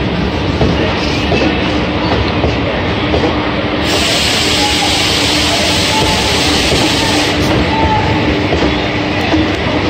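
Indian Railways ICF passenger coaches rolling past as the express pulls out, with a steady rumble and wheel clatter. A higher hiss joins in from about four seconds in and stops about three and a half seconds later.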